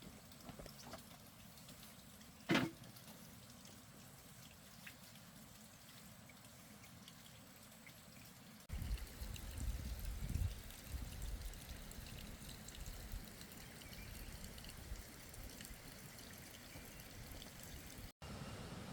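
Water pouring and trickling faintly, with one sharp, loud sound about two and a half seconds in and a low rumble joining from about nine seconds.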